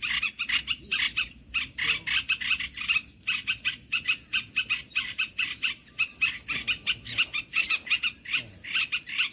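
Bird-trapping lure call for bulbuls: a fast, raspy chatter of about six or seven notes a second that repeats without a break. A few brief higher calls sound over it around the middle.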